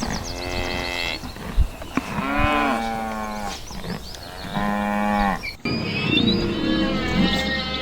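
Cattle mooing: three long moos, the second one lower. About two-thirds of the way through, the sound cuts abruptly to a different animal's higher, wavering calls.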